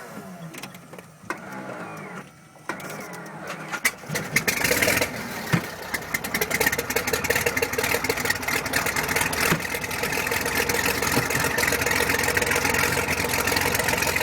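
A light aircraft engine starting up: quiet at first, then catching about four seconds in and running with a fast even beat that slowly builds in level.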